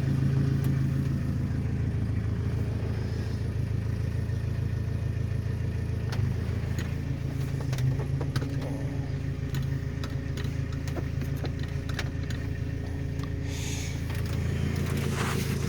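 Nissan 720 pickup engine running at a steady idle, with scattered light clicks in the middle of the stretch.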